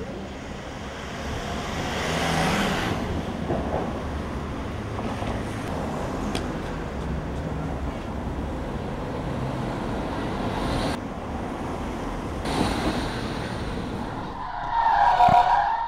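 Steady rumbling road-traffic-like noise that swells twice, as if vehicles pass. Near the end comes a loud, squealing burst, and then the sound cuts off abruptly.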